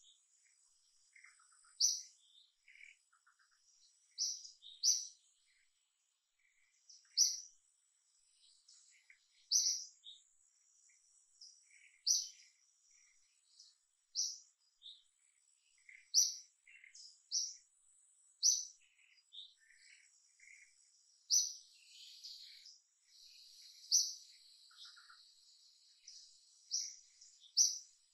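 Birds calling: a short, high chirp repeated about every two to three seconds, with fainter scattered calls between and a faint, steady, high insect whine underneath.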